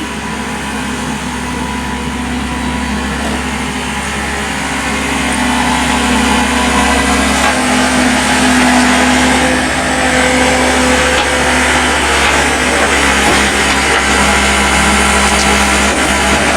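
Heavy construction machine's engine running steadily under work, getting louder and working harder about six seconds in, then holding.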